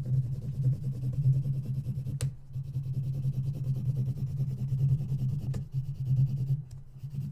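Colored pencil shading back and forth on paper: a continuous rough scratching that pulses with each stroke, with a couple of light taps along the way.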